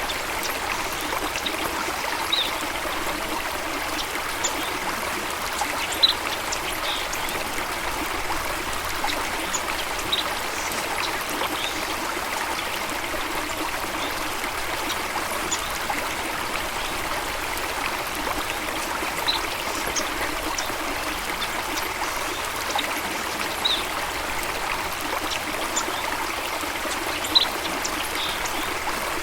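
Steady running water, a stream splashing and trickling, with scattered short high bird chirps every few seconds.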